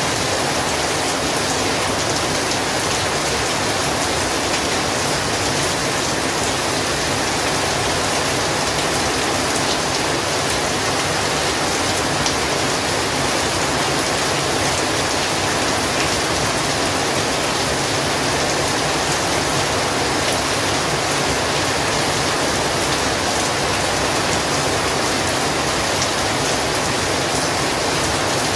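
Heavy rain falling steadily, a dense even hiss of drops with fine pattering, unchanging throughout.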